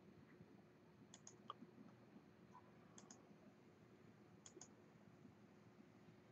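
Near silence with three faint pairs of sharp clicks, about a second and a half apart.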